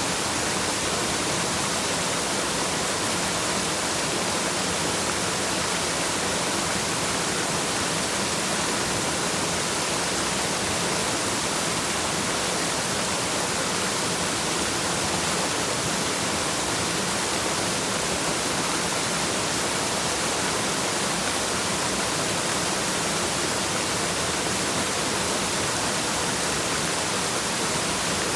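Waterfall: a steady rush of falling water, an even hiss that never changes.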